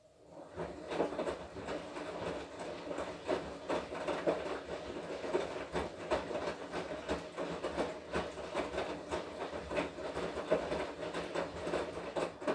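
Front-loading washing machine drum turning in the wash cycle: motor hum under a rapid clatter and knocking of wet laundry and water churning. It starts, runs for about twelve seconds and stops abruptly, as the drum does between its turns.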